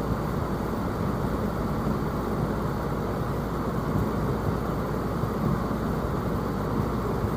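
Air conditioner running close by with a steady hum and blowing noise.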